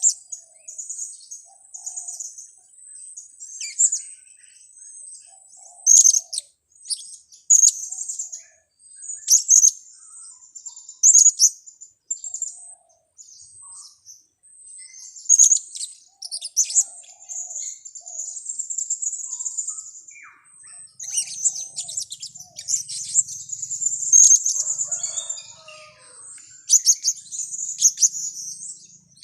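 Blue-crowned hanging parrots (serindit) calling: sharp, very high-pitched calls every second or two, breaking into longer chattering trills about two-thirds of the way through and again a little later.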